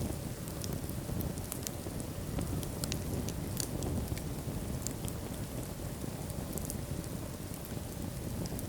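Wood fire burning in a fireplace: a low steady rumble of the flames with frequent small sharp crackles and pops from the burning logs.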